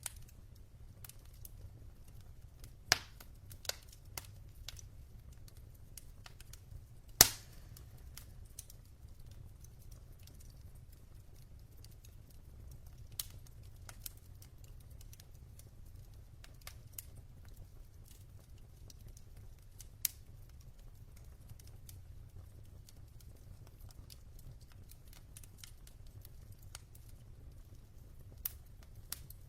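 Wood fire in a fireplace crackling: scattered sharp pops and snaps from burning logs over a low steady rumble, with the loudest pops about three and seven seconds in.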